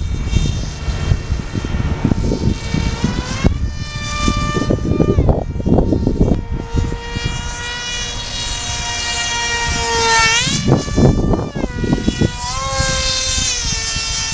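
RC foam MiG-29 model's motor and propeller whining overhead, its pitch rising and falling with throttle changes: up about three seconds in, down and back up near the end. Heavy wind buffeting on the microphone runs underneath.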